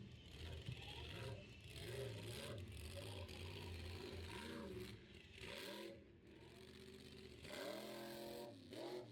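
Faint monster truck engine running and revving, its pitch rising and falling several times, with the biggest rev near the end.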